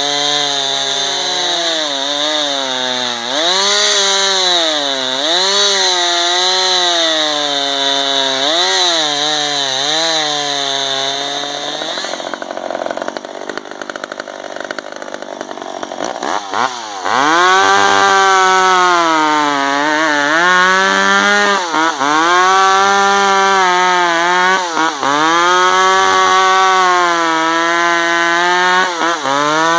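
Gas two-stroke chainsaw running at high revs, its engine pitch repeatedly sagging and recovering as it bites into wood. About halfway through the engine note fades for a few seconds, then the saw comes back up to speed and carries on cutting with the same rise and fall.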